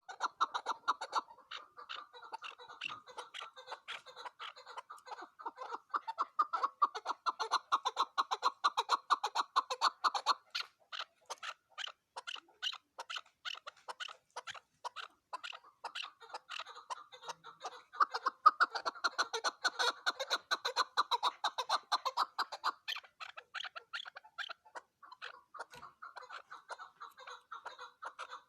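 Chukar partridge (chakor), said to be a female, calling in a fast run of short clucking notes that comes in waves, building to dense, louder bursts about a third of the way in and again past the middle.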